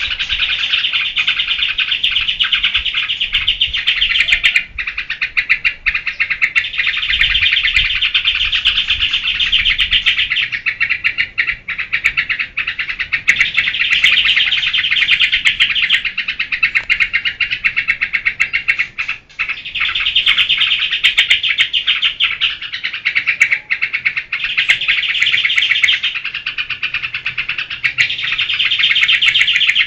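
Yellow-vented bulbul (trucukan) in rapid, continuous chattering song ('geberan'). It sings in long runs of several seconds each, broken by short pauses.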